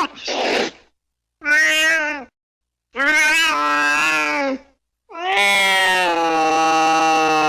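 Domestic cat meowing: a short meow, then two more, then one long drawn-out meow lasting over three seconds, with dead silence between the calls.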